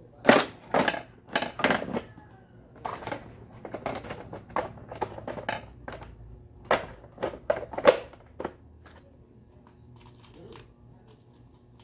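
A quick, irregular run of sharp clicks and knocks from blender parts being handled and fitted together during an Osterizer blender repair, dying away after about eight and a half seconds.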